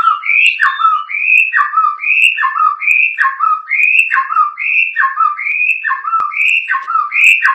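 A murai songbird repeating one short whistled phrase over and over, a little more than once a second: a high note that then drops to a lower falling note, likened to the bird calling the name "Jokowi".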